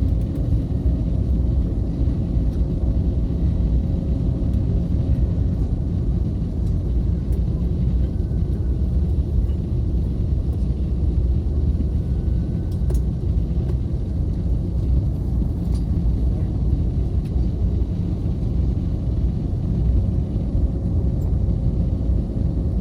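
Steady low rumble of a moving vehicle heard from inside, with a faint steady hum and no change in level.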